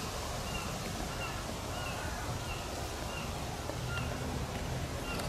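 A small bird repeating a short call note over and over, about once every two-thirds of a second, over a steady low background rumble.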